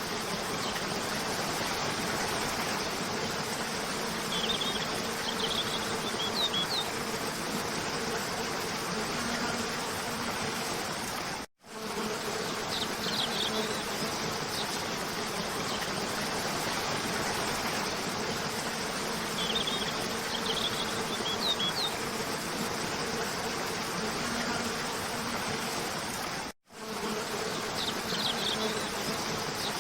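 Waterfall rushing steadily, with a steady low hum and short clusters of bird chirps every several seconds. The sound cuts out for a moment twice, about fifteen seconds apart, where a looped recording restarts.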